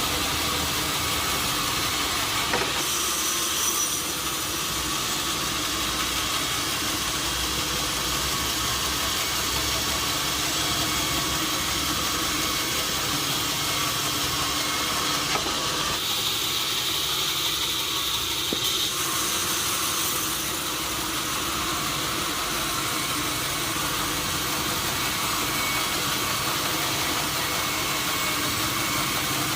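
Sawmill machinery running steadily: a continuous mechanical drone with hiss, its tone shifting slightly a few seconds in and again about two thirds of the way through.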